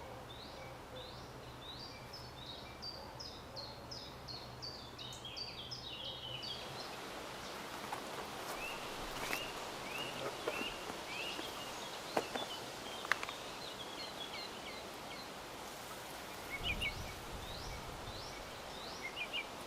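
Small birds chirping over a steady background hiss. A quick run of short, high, falling chirps lasts about six seconds, then a different bird's lower chirps come on and off.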